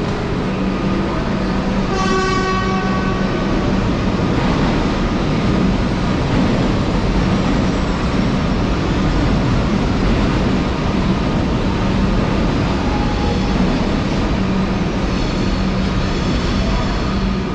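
Train running close by, loud and steady, with a constant low hum. A brief pitched tone sounds about two seconds in, and fainter high tones come near the end.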